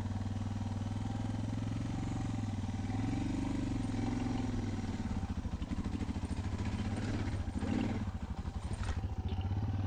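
Motorcycle engine running at low revs, the pitch swelling slightly twice as the throttle is opened a little.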